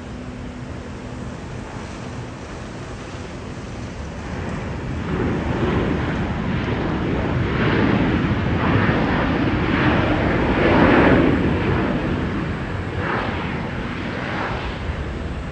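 Jet airliner passing close by, its rushing engine noise swelling to a peak about eleven seconds in and then fading away, with some wind on the microphone.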